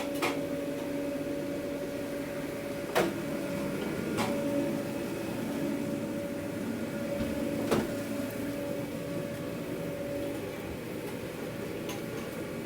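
Steady electric machine hum in a food truck's kitchen, holding two steady tones, with three sharp clicks or knocks about three, four and seven and a half seconds in.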